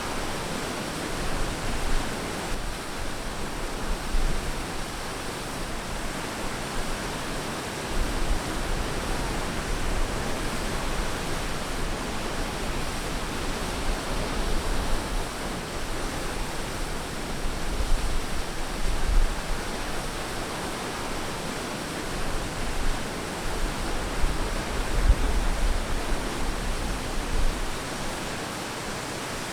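Ocean waves washing onto a beach: a steady rush of surf that swells slightly now and then.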